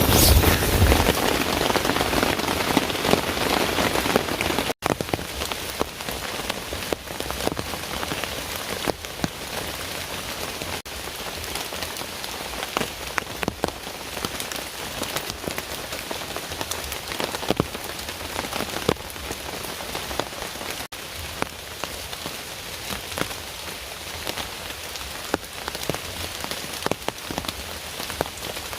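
Heavy rain falling steadily, with separate drops ticking through the hiss. About five seconds in the level drops suddenly, and the rain goes on quieter.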